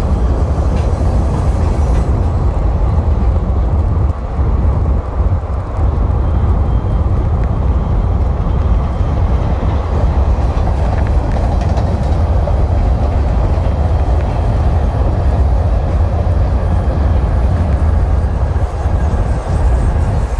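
Union Pacific weed sprayer train running along the track: a loud, steady noise, heaviest in the deep low end, with a brief dip about four seconds in.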